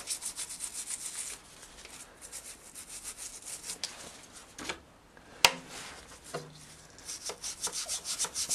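Rapid back-and-forth scrubbing on a motorcycle part, about ten quick rasping strokes a second, easing off around the middle and picking up again near the end, with one sharp click about five and a half seconds in.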